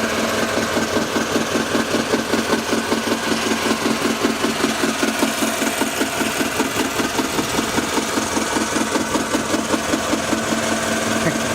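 Boat engine running steadily, with a fast, even pulsing throb and a steady hum.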